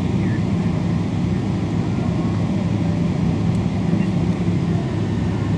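Steady low rumble and roar of a Boeing 777-224's engines and airflow, heard inside the passenger cabin from a window seat.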